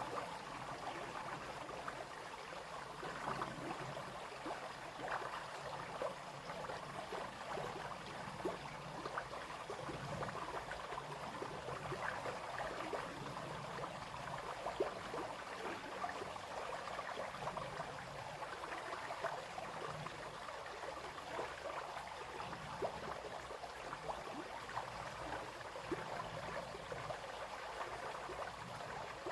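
A small brook flowing over stones, with steady babbling and many small splashes.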